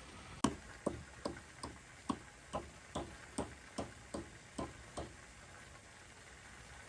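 About a dozen sharp knocks at an even pace, a little over two a second, each with a short ring, stopping about five seconds in.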